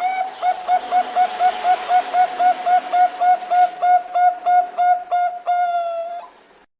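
Zebra dove (perkutut, Bangkok type) cooing: a rapid run of short hooked notes, about four a second, ending in one longer held note and then cut off abruptly.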